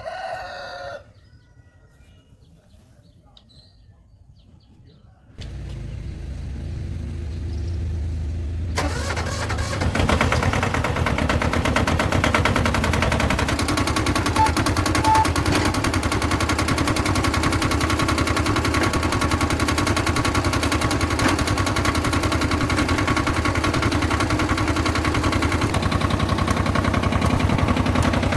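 A rooster crows briefly at the start. About five seconds in, the restored old tractor's engine starts up, builds over a few seconds and then runs steadily at a constant speed.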